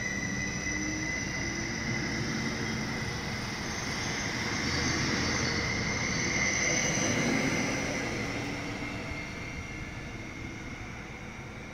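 Electric multiple unit running past and pulling away, with a steady high whine from its traction drive over the rumble of the wheels. It peaks just past the middle, then fades as the train draws away.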